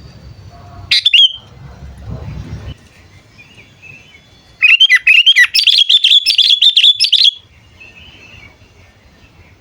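Sooty-headed bulbul calling: a short burst of calls about a second in, then a fast run of chirps lasting over two seconds past the middle.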